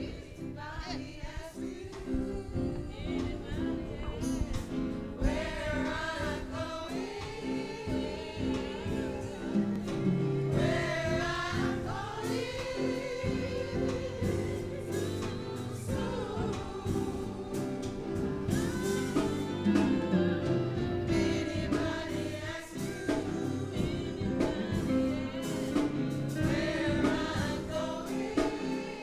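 Gospel singing over steady instrumental backing, the voices rising and falling through a melody.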